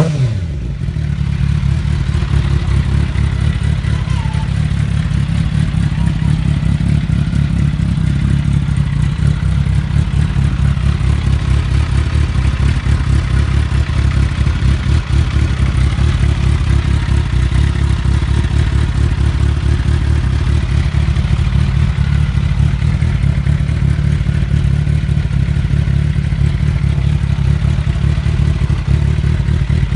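Suzuki GSX-R750 inline-four with a full aftermarket exhaust system idling steadily, after a throttle blip that falls away right at the start.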